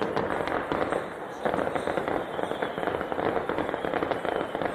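Fireworks going off in a dense, continuous run of crackling bangs, easing briefly about a second in before building again.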